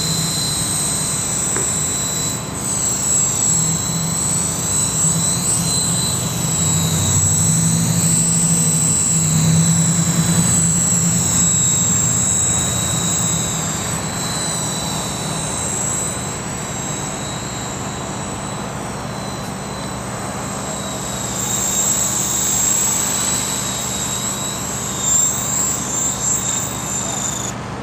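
Small electric RC helicopter, a brushless-motor Esky Honey Bee King 2, flying about: a steady high motor-and-gear whine over the rotor's hum, swirling and swelling as the helicopter moves around.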